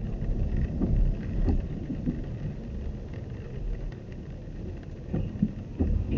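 A car's low running rumble, with a few short soft knocks.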